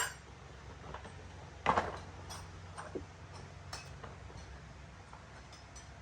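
Light clinks and knocks of metal tools and parts being handled, with one louder knock a little under two seconds in, over a low steady hum.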